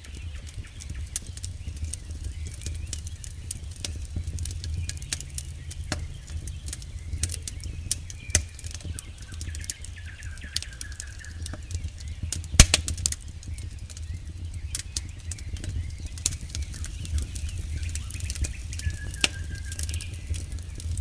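Campfire crackling with irregular sharp pops, the loudest pop about halfway through, over a low steady rumble of the burning fire. A faint high-pitched call is heard twice.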